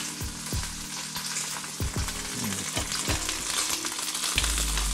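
Yellowfin tuna steaks sizzling in olive oil in a stainless steel pan, a steady frying hiss just after the burner has been switched off.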